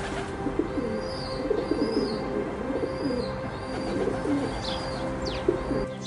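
A dove cooing in low, repeated rolling calls, with short high chirps of small birds above it.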